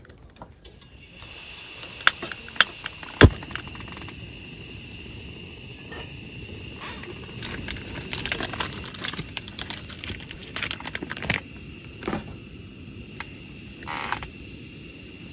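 Crickets chirring steadily in a high, many-toned chorus that sets in about a second in. Over it come three loud sharp knocks around two to three seconds in, then a scatter of clicks and crackles in the middle.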